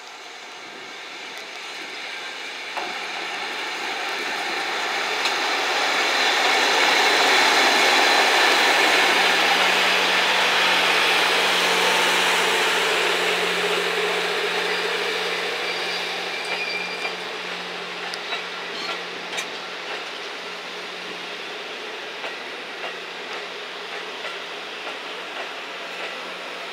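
EF65 electric locomotive hauling 35-series passenger coaches past: the rumble builds to its loudest as the locomotive goes by about eight to twelve seconds in, then the coaches roll past with regularly spaced wheel clicks and a steady low hum.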